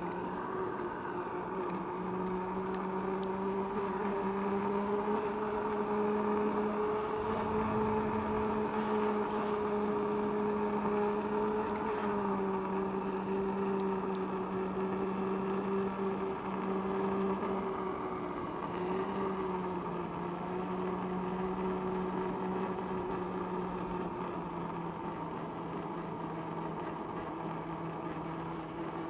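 Electric unicycle's hub motor whining steadily while being ridden, its pitch drifting slightly up and down with speed.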